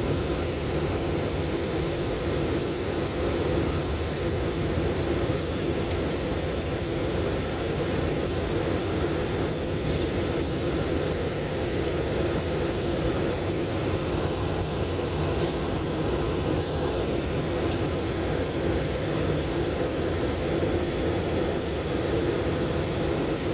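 Steady engine and airflow noise inside an airliner's passenger cabin, with a faint high steady whine above it.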